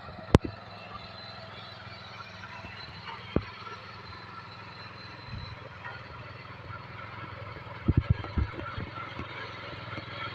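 Tractor engine running steadily, with sharp knocks and clatter over it: a loud one just after the start, another about three seconds in, and a quick cluster of several near the end.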